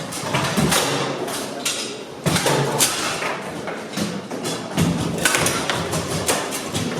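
Bonzini table football in play: the ball and the players' rods knock and clack irregularly, with sharp hits a little after two seconds and near five seconds.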